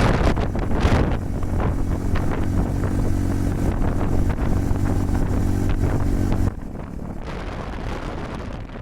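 Honda Super Cub 110's single-cylinder four-stroke engine running at a steady pitch while riding, under heavy wind buffeting the microphone. The engine tone cuts off suddenly about six and a half seconds in, leaving quieter wind noise.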